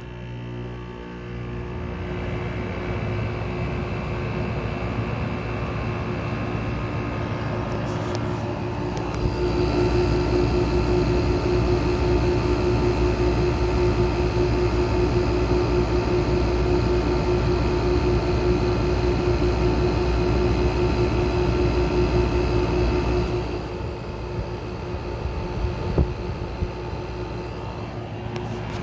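Small 5000 BTU window air conditioner starting up: the fan motor spins up, and about nine seconds in the compressor kicks on with a louder, steady hum and tone. About 23 seconds in, the level drops a step. The running noise includes the fan's bearings, which are going bad and are loud enough to drown out the compressor.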